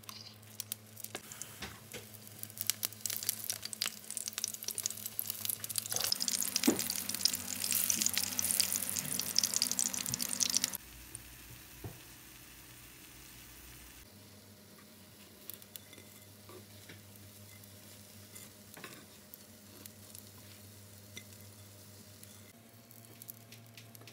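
Fish cakes frying in hot oil in a pan: dense sizzling and crackling that builds over the first ten seconds, then drops suddenly to a fainter, sparser sizzle. A low steady hum runs underneath.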